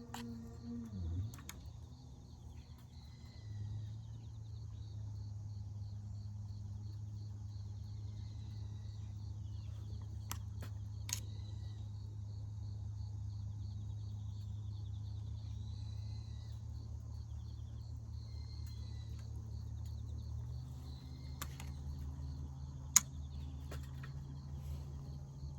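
Crickets chirping in a fast, even trill over a steady low hum, with a few sharp clicks, the loudest near the end.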